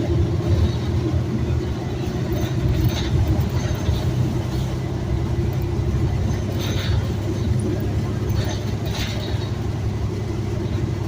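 A city bus in motion: a steady low engine and road rumble, with a few brief higher rattles or squeaks spread through it.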